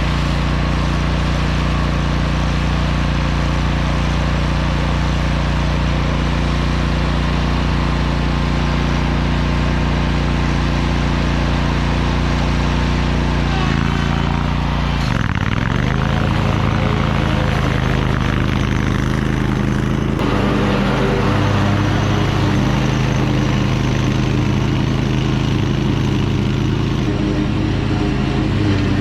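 Toro Titan Max zero-turn lawn mower engine running steadily while mowing. About halfway through, the engine note dips briefly in pitch and then recovers.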